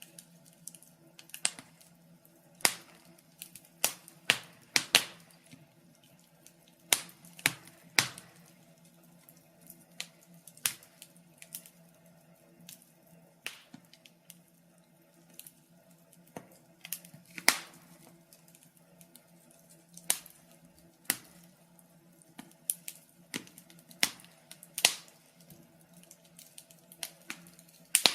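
Wood fire crackling: irregular sharp pops and snaps, sometimes several close together, over a faint steady low hum.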